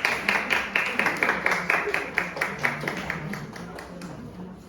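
A small audience clapping at a fast, fairly even pace, dying away near the end.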